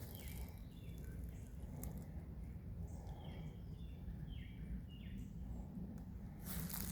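A bird calling in a run of short, quick chirps that fall in pitch, over a low steady outdoor rumble. Crunching footsteps start again near the end.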